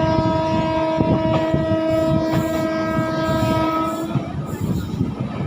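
Train horn sounding one long, steady blast that cuts off about four seconds in, over the rumble and wheel clatter of a moving passenger train heard from on board.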